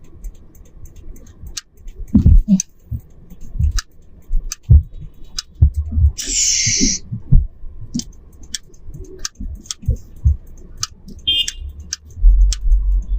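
Noises inside a moving car: scattered clicks, knocks and low thumps, with a hiss lasting about a second near the middle.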